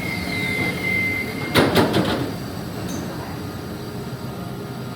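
Regional train: a steady high whine stops about one and a half seconds in, followed by a short, loud rattle and clunk, then a lower steady rumble.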